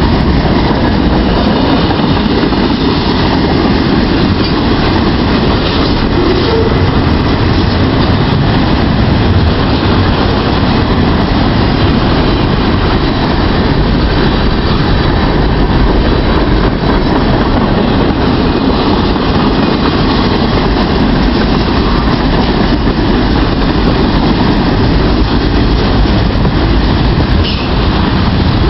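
Long Norfolk Southern freight train's cars rolling past at speed: a loud, steady rumble and rattle of steel wheels on the rails.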